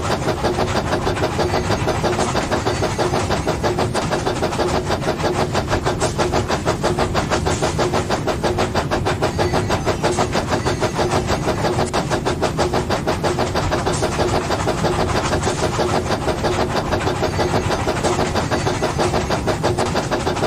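Engine of a brick train running steadily with a fast, even beat.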